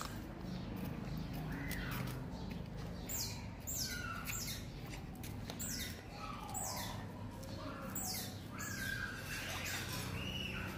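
Birds squawking: a run of sharp, steeply falling calls that starts about three seconds in and repeats irregularly, with lower curved calls among them.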